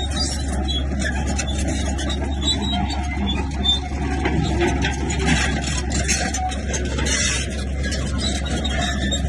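Heavy diesel earthmoving machine, a bulldozer, running steadily with a low engine drone and continuous metallic clatter and scraping.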